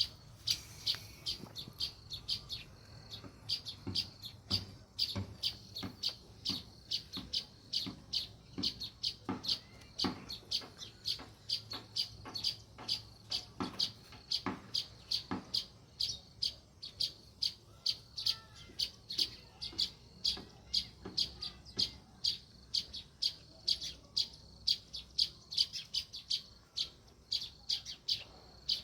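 House sparrow chirping: a steady run of short, repeated chirps, about two a second.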